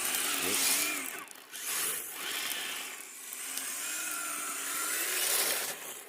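Electric motor and geartrain of a Kyosho 1/10-scale RC crawler whining under throttle. The pitch rises and falls as the driver works the throttle, easing off briefly a little over a second in and again around three seconds in.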